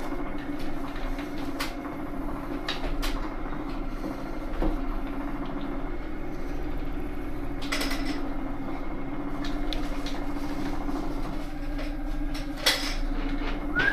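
Vibration plate exercise machine running with a steady low hum, with a few scattered clicks and knocks.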